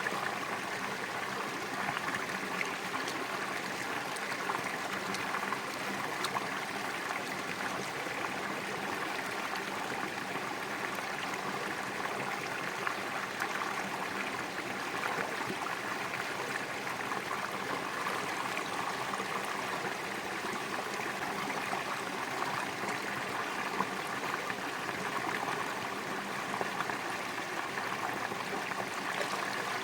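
Stream water running steadily, with a few faint clicks over it.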